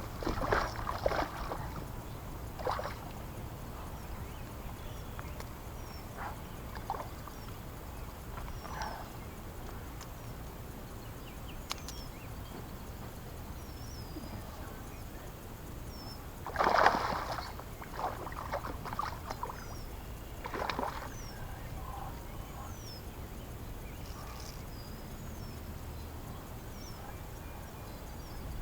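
Water sloshing and splashing around a small boat in a few short bursts, the loudest about two-thirds of the way through, over a steady low rumble. Faint bird chirps come and go throughout.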